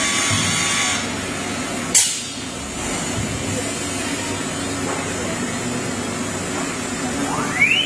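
Heavy-duty CNC machining center running, with a sharp click about two seconds in. Near the end its HSD spindle starts spinning up, a rising whine.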